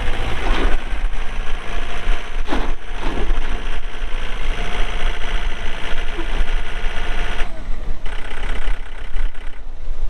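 John Deere 4320 tractor's 48 hp Yanmar diesel engine running steadily, with a couple of short knocks about two and a half to three seconds in. The higher-pitched part of its noise falls away about seven and a half seconds in, leaving the low rumble.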